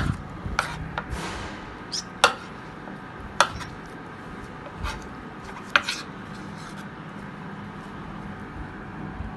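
Knife cutting mushrooms into quarters on a cutting board: a handful of separate knocks of the blade on the board, irregularly spaced a second or more apart, over a faint steady low hum.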